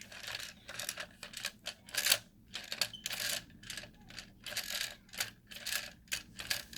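Hard plastic toy parts clicking and rattling as they are handled, a quick irregular run of small clicks and clatters.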